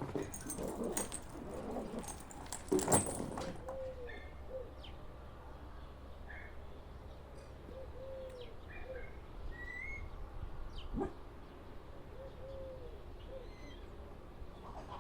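A bird calling: a run of short, low, arching notes with a few brief higher whistles, after a burst of rustling and clicks in the first three seconds.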